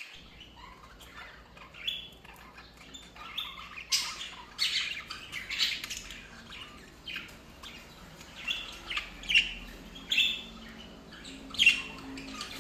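Budgerigars chirping in short, irregular calls, the loudest a little before the end.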